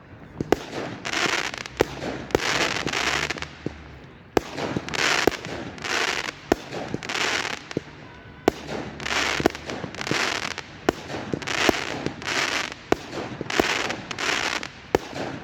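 Fireworks going off: sharp bangs interleaved with bursts of hissing crackle, coming roughly once a second.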